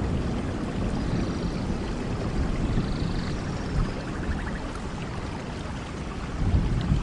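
Steady rain with a low rolling rumble of thunder underneath, which swells again near the end.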